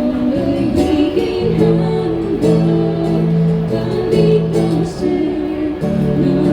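A band playing a song live, with singing over sustained instrumental chords.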